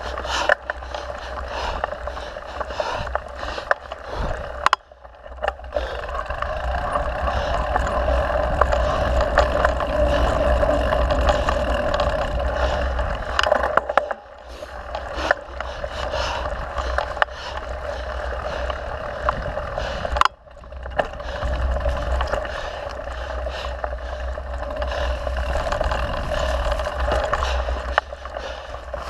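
Steady riding noise of a mountain bike on a dirt trail, a rushing with low rumble, scattered with sharp clicks and knocks from bumps. It dips briefly three times, about 5, 14 and 20 seconds in.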